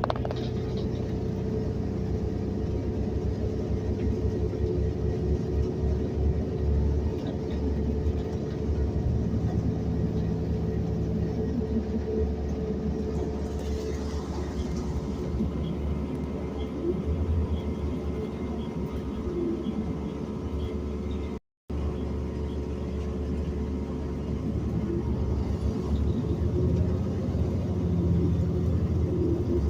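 City bus in motion, heard from inside: a steady low rumble of engine and road noise with a constant hum. The sound cuts out for a split second a little past two-thirds of the way in.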